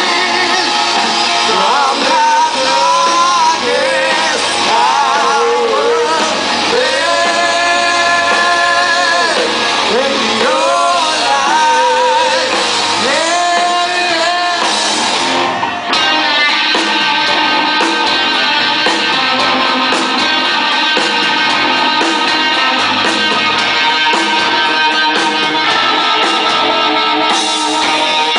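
Live rock band playing loud in a large room: a lead melody bends and wavers over the band for about the first half, then about halfway through the band moves into steady strummed electric guitar chords.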